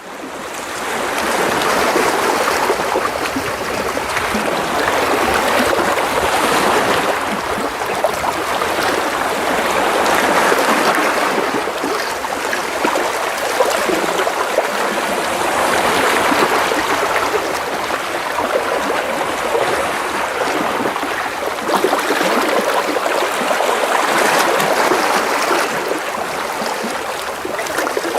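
Gentle sea waves splashing and washing against rocks close by: a continuous wash of water that swells every few seconds as each wave comes in. It fades in over the first second or two.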